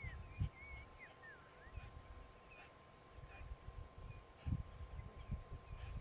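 Wild birds calling: a few whistled, looping glides in the first two seconds, then short single chirps about once a second. Under them sit a faint steady tone and irregular low rumbles.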